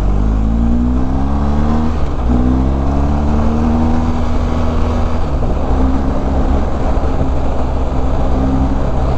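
BMW R1250GS's boxer twin engine pulling up through the gears: the pitch rises, drops at a gear change about two seconds in, rises again, then settles to a steady cruise after another shift around five seconds, over a heavy low rumble.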